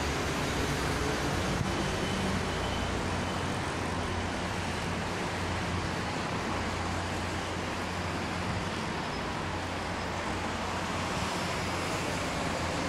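Distant passenger train running along the tracks as it pulls away: a steady low rumble under a broad, even noise, the rumble easing after the first few seconds.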